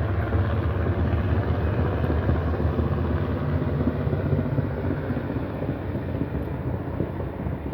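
Helicopter flying low overhead, its rotor chopping steadily, the sound slowly fading as it moves away.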